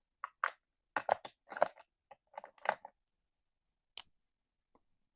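Clicking and rattling of colouring pens or pencils being picked through and handled: a quick run of small clicks over the first few seconds, then a single click about four seconds in and a fainter one near the end.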